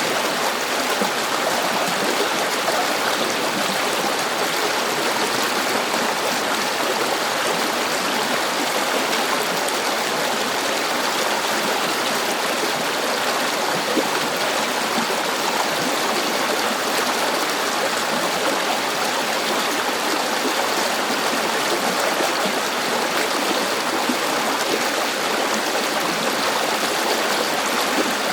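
A river running steadily, its water rushing and babbling without a break.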